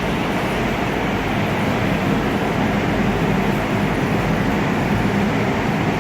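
Steady, loud rushing of a running paint spray booth's ventilation, mostly low and deep.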